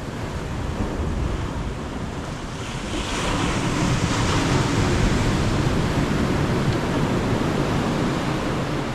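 Ocean surf breaking on the shore. A wave swells about three seconds in and washes back out, with wind buffeting the microphone.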